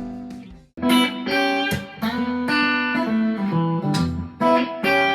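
Fender Deluxe Stratocaster electric guitar with N3 Noiseless stacked-humbucker pickups being played. A ringing chord dies away and stops about three-quarters of a second in, then picked notes and chords start again.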